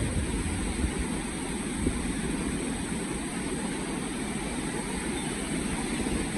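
Steady rushing of Niagara Falls' falling water: a dense, even noise, heaviest in the low end.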